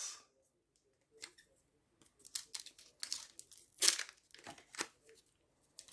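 A trading card pack's wrapper being torn open and crinkled by hand: quiet at first, then a run of irregular crackles about two seconds in, loudest just before the end of the tearing.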